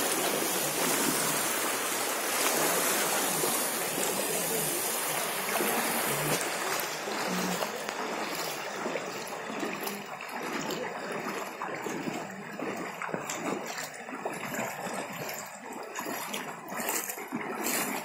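Floodwater flowing and splashing: a steady rush for the first six seconds or so, then thinner, with irregular splashes.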